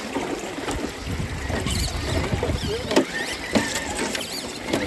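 Creek water running and splashing, with wind rumbling on the phone's microphone.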